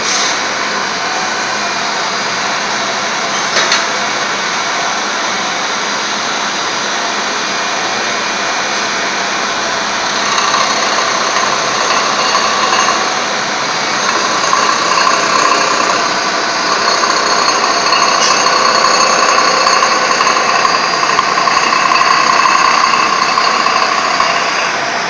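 Stone edge-profiling machine running steadily as it grinds the edge of a marble slab. About ten seconds in, a louder grinding whine joins the running noise, breaks off briefly, then continues until near the end.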